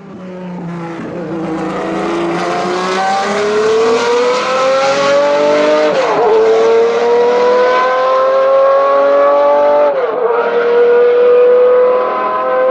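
Race car engine accelerating hard, pitch climbing steadily, with two upshifts about six and ten seconds in where the pitch drops briefly and climbs again. It grows louder over the first few seconds.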